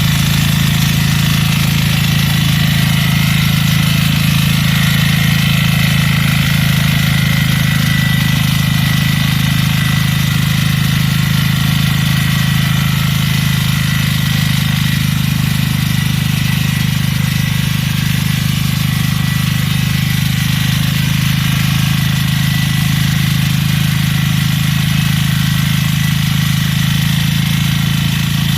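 Small engine of a groove-cutting (trenching) machine running steadily at an even speed, with a constant low hum.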